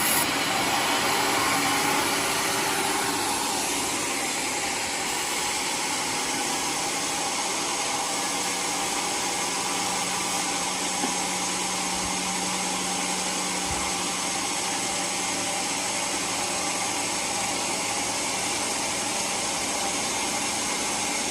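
Homemade sawmill running, a loud, steady machine noise that eases slightly a couple of seconds in.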